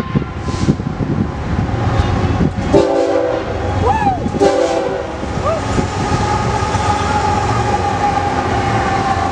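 BNSF freight train's diesel locomotives sounding two horn blasts, about three and four and a half seconds in, then passing close with a heavy engine rumble and a steady high tone.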